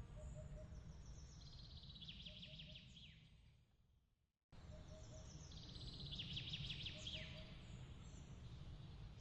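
Bird chirps and rapid trills, with a couple of quick falling calls, over a low steady rumble. About four seconds in, everything fades to silence and then starts again abruptly half a second later, the same pattern repeating: a looped ambience recording restarting.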